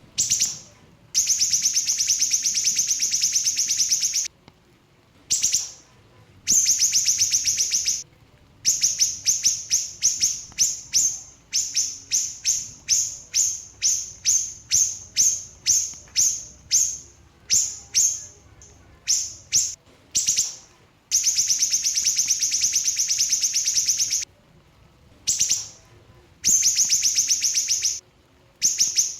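Small siri-siri bird singing a loud, high, fast-pulsed trill, held for a second or more at a time, alternating with quick runs of short repeated notes at about two or three a second. These are the tight, rapid "shooting" phrases prized in a training song.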